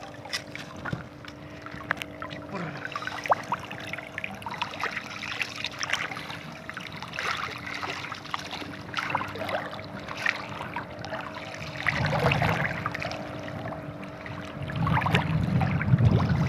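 Water trickling and splashing with many scattered small knocks, over a faint steady motor hum. Strong wind buffets the microphone with low rumbles about twelve seconds in and again near the end.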